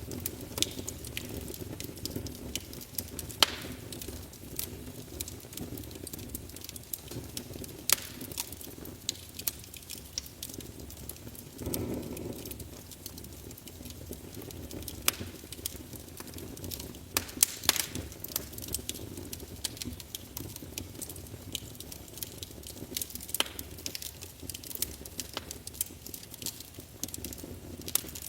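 Fire burning in a fireplace: a steady low rush of flames with sharp crackles and pops at irregular intervals, a few of them louder, and a brief swell of flame noise about halfway through.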